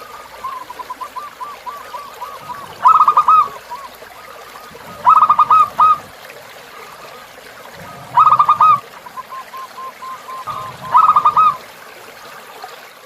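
Zebra dove (perkutut) cooing its staccato song: four loud phrases of quick, rapidly repeated notes, each under a second long and two to three seconds apart. A fainter dove coos in the gaps, over a faint steady stream trickle.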